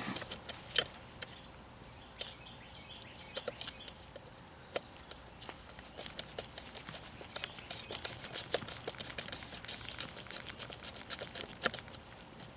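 Scattered light clicks and taps of small metal parts and a hand tool being handled while the exhaust spark arrestor screen bolts are fitted. The clicks come sparsely at first and grow quicker and denser from about halfway on.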